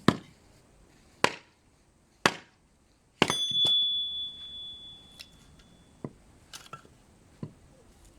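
Three sharp knocks about a second apart, then a struck object rings with a single high, clear tone that fades over about two and a half seconds, followed by a few light clicks.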